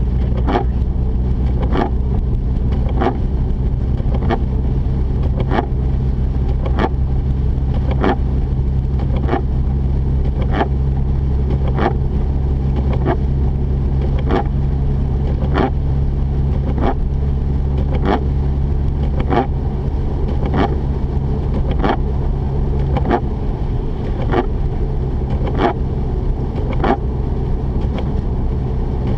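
Mazda RX-8's two-rotor Wankel engine and road noise droning steadily inside the cabin while driving, with a regular click about twice a second.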